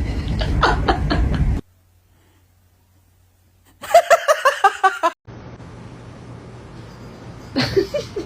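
A person laughing in a quick run of short, evenly spaced bursts lasting about a second, the loudest sound here, after a loud noisy stretch that cuts off suddenly into a couple of seconds of near silence. A low steady hum follows, with a brief voice sound near the end.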